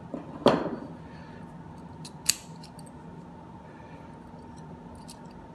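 Two sharp clicks about two seconds apart, the first the loudest, with faint small ticks between them. They come from hand work on the parts of a porcelain pull-chain lamp holder being put back together.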